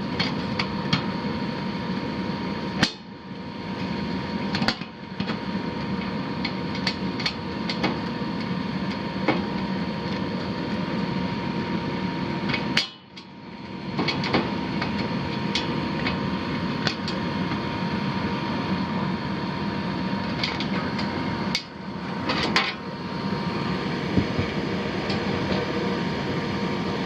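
Repeated clicks and knocks of sheet metal and fasteners as the access cover of a gas furnace / air handler is worked loose and taken off, over the steady running hum of the unit. The hum briefly drops away a few times.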